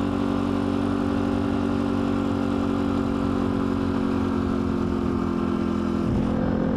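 Dirt bike engine running at a steady speed, its pitch holding constant.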